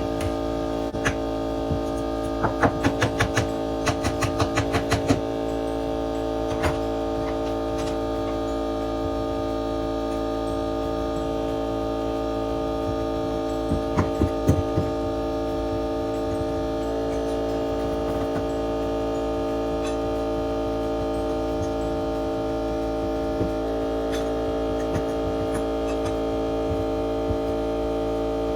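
A steady hum made of several held tones runs throughout. Over it come sharp knocks: a quick run of about ten between about two and five seconds in, and four more around fourteen seconds in.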